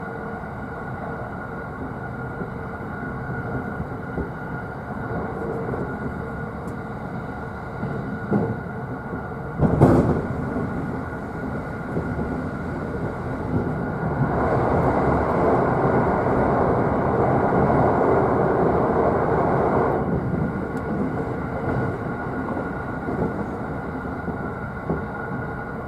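JR East E531 series train running, heard from the upper deck of a bilevel car: a steady rolling rumble with one sharp bang about ten seconds in. A louder rushing noise joins in for about six seconds past the middle.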